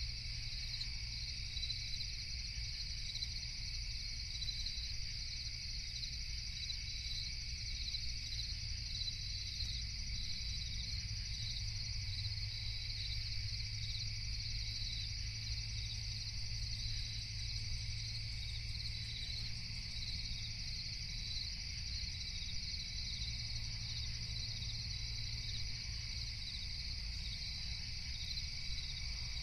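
A steady night chorus of crickets chirping, a dense high pulsing trill that never stops, over a low, even rumble.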